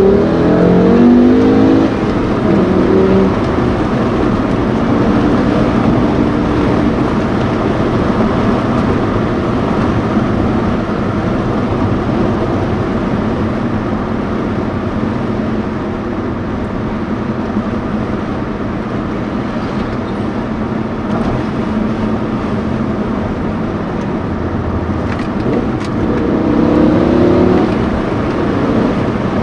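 BMW M5 E60's 5.0-litre V10 heard from inside the cabin with the windows up. It revs up hard in the first couple of seconds, runs at a steady pitch through the middle, and climbs in revs again near the end.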